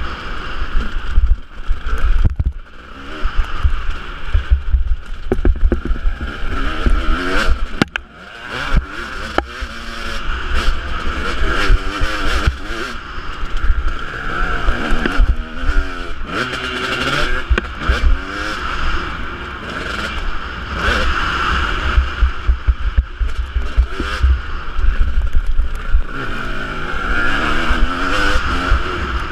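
Husqvarna 250 two-stroke motocross bike engine revving hard and falling off again and again as it is ridden, its pitch sweeping up with each burst of throttle, with heavy wind buffeting on the microphone.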